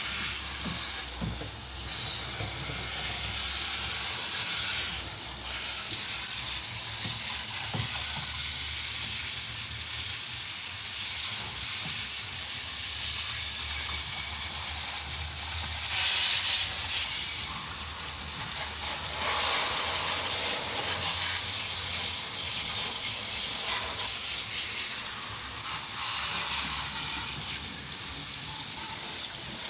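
Garden hose spraying water over an engine bay, a steady hiss that shifts in strength as the spray moves across different surfaces. It is the rinse that washes the degreaser off the engine.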